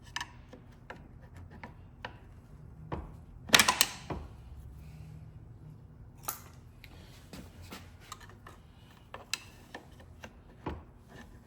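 Scattered metallic clicks and knocks of hand tools and parts being worked inside an automatic transmission case while a band is worked loose, with a louder burst of clatter about three and a half seconds in.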